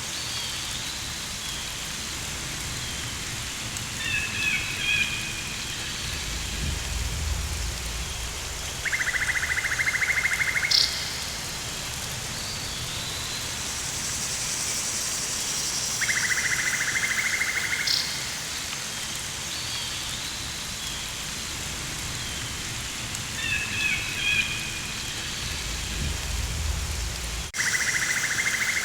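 Rainforest soundscape: a steady hiss of rain with bird chirps and pulsed buzzing calls of insects, each lasting about two seconds, over a low rumble twice. Near the end the sound cuts briefly and the same sequence starts again, as a loop.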